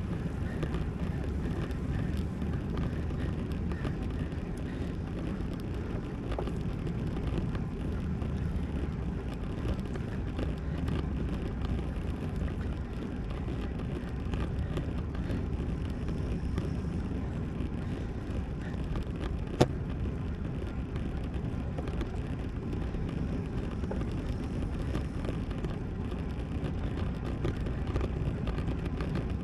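Steady rush of wind and tyre noise from a road bike being ridden, with one sharp click about two-thirds of the way through.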